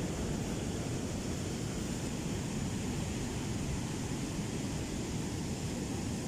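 Steady low rumble of ocean surf on a beach, mixed with wind.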